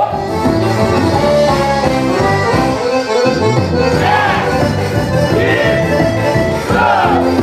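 Festa junina music led by an accordion, playing steadily.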